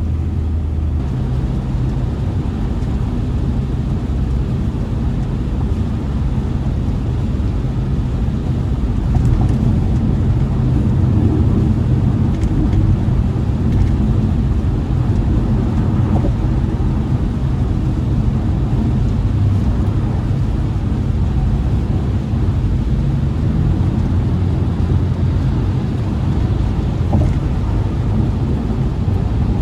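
BMW E60 sedan driving: steady engine drone with road noise, swelling a little around ten to sixteen seconds in.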